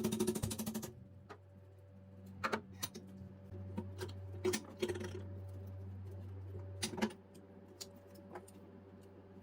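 Music stops about a second in. Then come scattered light metallic clicks and clinks of gun parts being handled, about eight in all, over a steady low electrical hum that grows louder in the middle.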